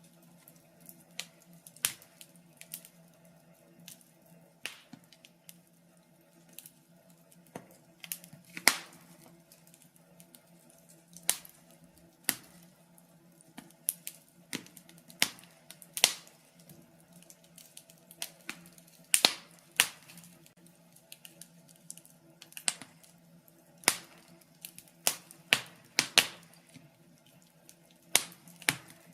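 Wood fire burning in a fireplace, crackling with irregular sharp pops and snaps, a few a second, some much louder than the rest.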